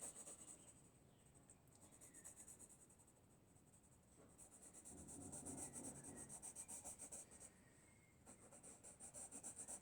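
Faint pencil shading on paper: quick back-and-forth scratching strokes in several runs with short pauses between them.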